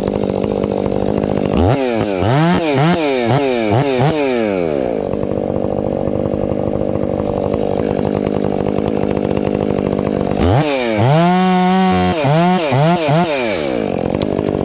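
Stihl 500i two-stroke chainsaw idling, with two spells of quick throttle blips where the engine revs up and drops back several times. In the second spell it holds a high rev for about a second.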